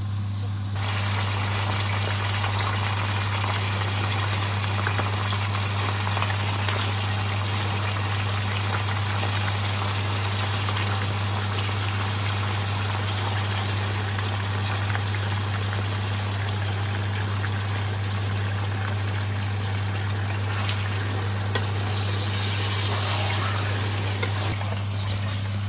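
Sliced onions and raw chicken pieces sizzling in hot oil in a steel pan, a steady frying hiss that swells briefly near the end. A steady low hum runs underneath.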